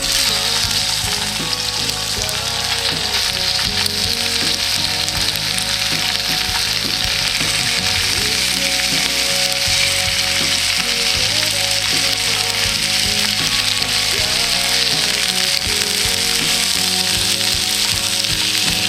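Food sizzling and frying in a hot pan, a dense steady hiss that starts abruptly, with background music underneath.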